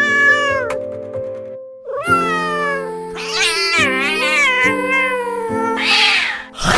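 Cartoon cat meowing several times, in long, wavering, falling calls, over background music with held notes.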